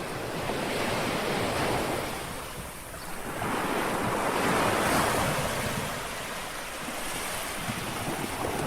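Small sea waves lapping on a shore: two washes, the second and louder one about four to five seconds in, over a steady rush of water.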